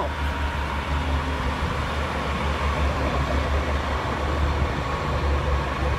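Northern Class 331 electric multiple unit pulling into the platform: a steady low rumble of the train rolling past, with a faint steady whine.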